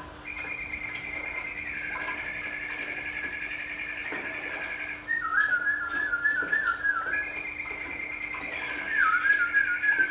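Whistling: long held high notes with a fine wavering trill, broken twice by quick falling warbles, over a steady low hum.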